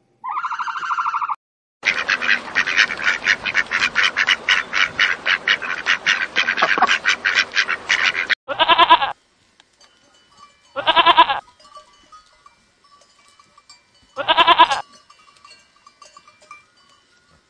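A turkey's short, rapid gobble, then a flock of mallard ducks quacking in a fast, continuous run for about six seconds, then a goat bleating three times, a few seconds apart.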